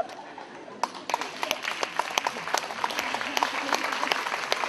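Audience applauding, breaking out about a second in and going on as dense, many-handed clapping.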